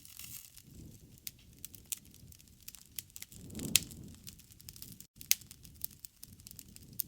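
Wood fire crackling: irregular sharp pops and snaps over a low rumble of burning, with two louder pops, one in the middle and one about five seconds in. The sound cuts out completely for an instant just after five seconds.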